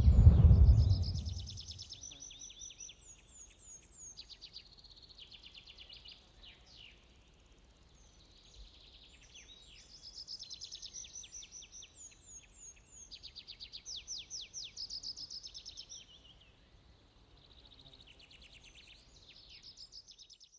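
A deep low boom that swells and fades over the first second and a half, then birds singing: phrases of rapid repeated notes and trills, coming in bursts with short gaps between them.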